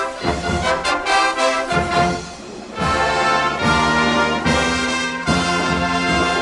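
Marching band playing live: brass section with drum hits on the beat, moving into held brass chords over a low bass line about halfway through.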